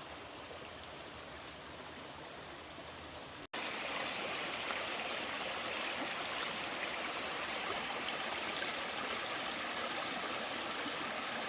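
Stream water flowing over rocks, a steady rushing. About three and a half seconds in it jumps abruptly louder and fuller.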